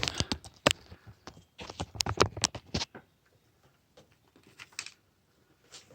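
Small metal parts clicking and clinking as they are handled. A quick run of sharp clicks comes in the first three seconds, then a few faint clicks later on.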